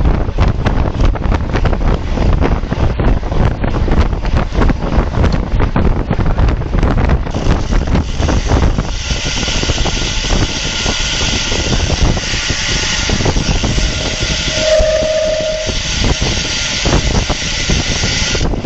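Wind buffeting the microphone of a camera mounted on a moving road bike, a dense low rumble throughout. About halfway through, a steady high hiss joins it, and a short single tone sounds near the end.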